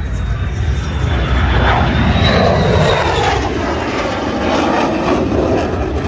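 An aircraft flying past, loud: its engine noise swells to a peak about two to three seconds in, with a high whine that dips slightly in pitch, then eases off.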